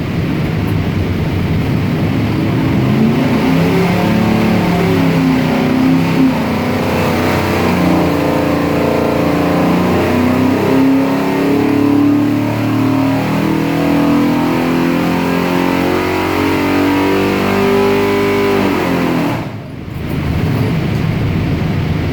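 Speed Fanatix 427 small-block Ford V8, fed by a Holley carburetor, making a dyno pull: the engine note climbs steadily in pitch for about fifteen seconds as the revs sweep up under load. Near the end the throttle closes, the sound drops off sharply for a moment, and the engine runs on at a lower, steady speed.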